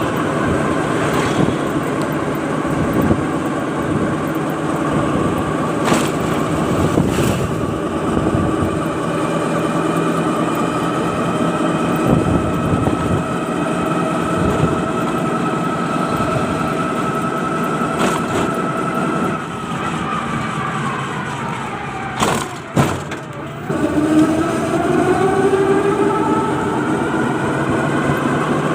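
An engine running steadily. About 19 seconds in it slows and its pitch falls; a few knocks come near 22 to 23 seconds, and then it picks up speed again.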